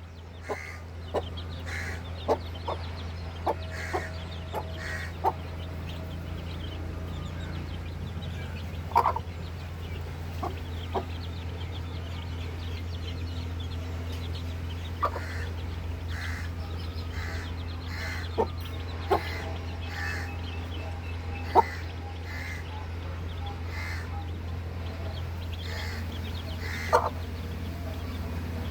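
One-month-old fan-tailed parrot-beak (Kilimooku) chicks peeping in short, scattered calls over a steady low hum.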